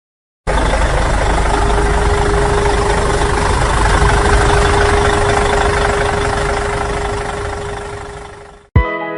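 Tractor engine running, cutting in abruptly about half a second in with a heavy rumble and a steady hum, then fading out near the end. Guitar music starts right at the end.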